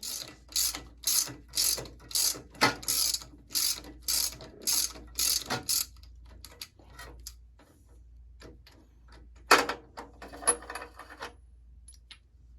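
Hand ratchet wrench being worked in quick back-and-forth strokes, about two a second for some six seconds, each stroke a burst of pawl clicking. Then a few scattered clicks and one more short ratchet burst about ten seconds in.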